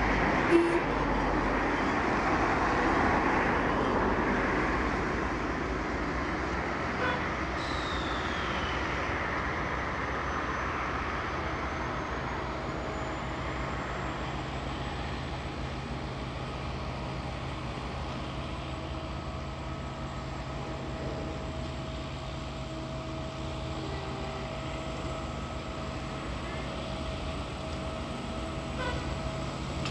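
Rail vehicle noise during night track work: a loud rushing that dies away over the first several seconds, then a steady engine hum with a faint high whine.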